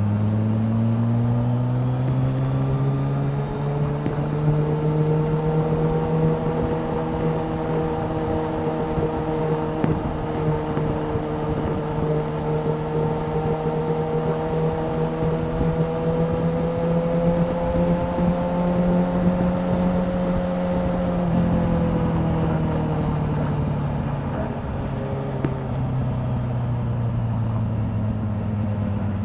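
Suzuki Hayabusa's inline-four engine under way: the pitch climbs over the first few seconds, holds at a steady cruise, then falls back from about twenty-two seconds in as the revs drop. A steady rushing noise runs beneath it.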